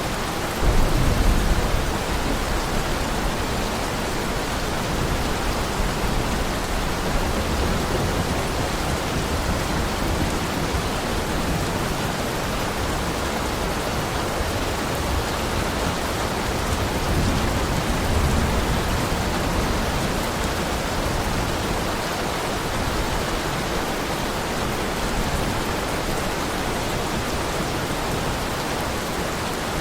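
Heavy rain falling steadily, a dense even hiss. A low rumble swells up about a second in and again around seventeen seconds in.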